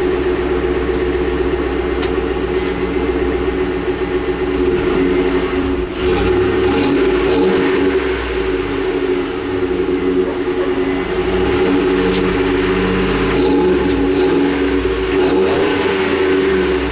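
Exhaust note of a 2008 Ford F-150's 5.4-litre V8 running through its stock mufflers, loud and steady, with the engine note changing a few times.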